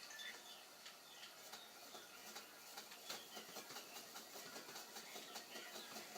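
Faint, continuous crinkling and rustling of packaging being handled: a dense run of small crackles and clicks.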